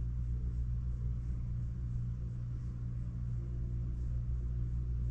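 Steady low electrical hum of an air-conditioning unit running, unchanging throughout.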